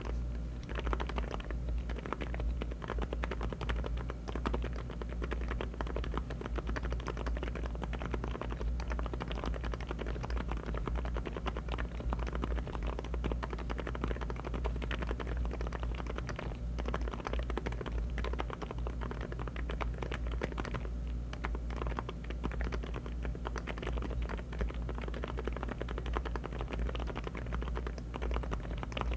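Fast, continuous typing on an aluminium-cased LEOBOG Hi75 mechanical keyboard fitted with HMX Silent Sakura silent linear switches and Cherry-profile keycaps. The keystrokes are close together and unbroken, over a steady low hum.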